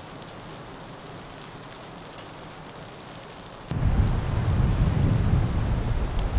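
Snowstorm weather on the tent: a soft, steady hiss, then a sudden change a little over halfway through to a much louder low rumbling of wind gusts, with faint ticking of precipitation.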